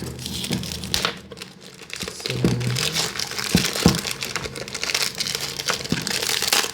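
Packaging crinkling and crackling as it is handled and opened, with scattered sharp clicks.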